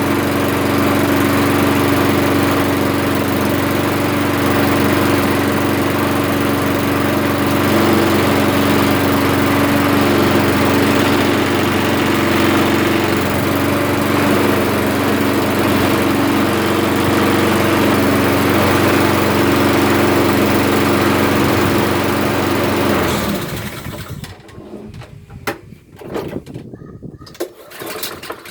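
Petrol walk-behind lawnmower engine running steadily at a constant speed, then cutting out suddenly near the end, followed by a few clicks and knocks.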